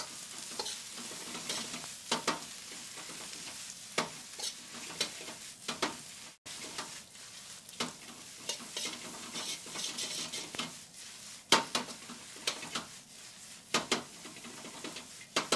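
Vegetables sizzling in hot peanut oil in a wok as they are stir-fried with a spoon: a steady frying hiss broken by irregular clicks and scrapes of the spoon against the wok.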